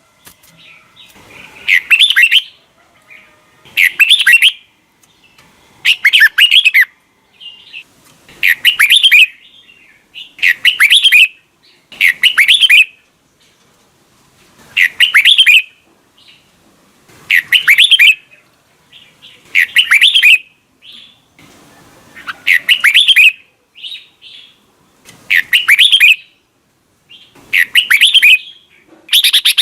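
Red-whiskered bulbul singing: short, loud, whistled song phrases of the wild double-note type, one about every two seconds.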